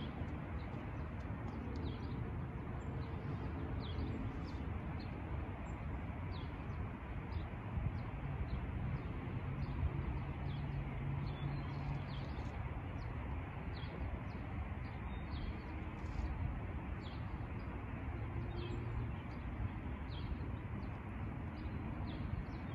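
Small birds chirping, short high calls scattered every second or so, over a steady low background rumble.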